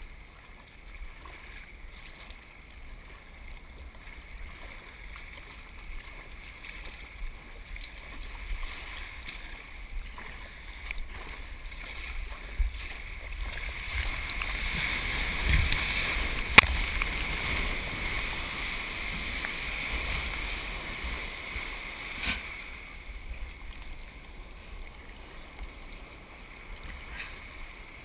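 Water rushing around a Kaos surf kayak, with wind rumble on the microphone. The noise swells to its loudest a little past the middle, with one sharp knock partway through.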